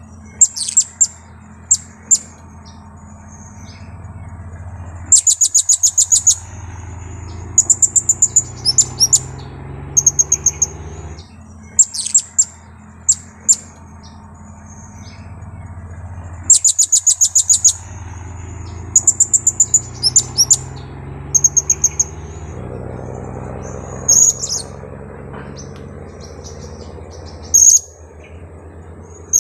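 Blue-crowned hanging parrot (serindit) lure call: shrill, very high chirps in quick trains of several notes a second, with short pauses between. The same sequence comes round again about every eleven seconds, over a steady low hum.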